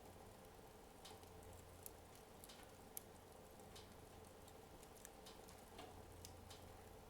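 Faint, sparse, irregular crackles and ticks of a wood fire in a fireplace that has burned down to embers, over a low steady hum.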